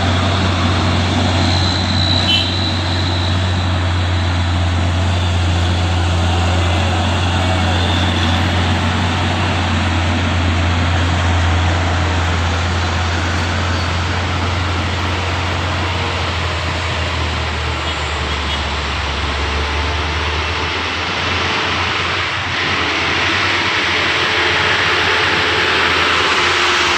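Heavy diesel truck engine droning steadily under load as it climbs a steep hill, over constant road and wind noise. The low engine drone fades about three quarters of the way through, while the hiss of noise grows brighter near the end.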